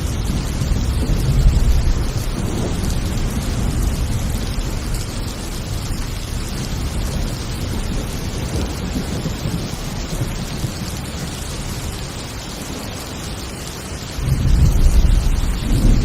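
Intense thunderstorm: heavy rain hissing steadily, with deep rolling thunder. A rumble dies away over the first couple of seconds, and a new, louder rumble breaks in suddenly about two seconds before the end.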